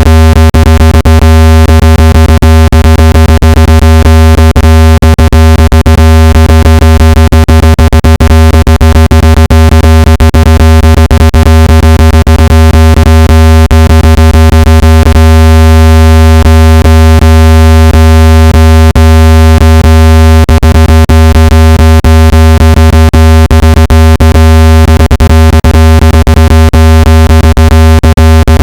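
Loud, steady synthesized low buzzing tone with many overtones, the kind of speaker-cleaning tone played through a phone speaker to vibrate out water and dust. Frequent sharp clicks run through it.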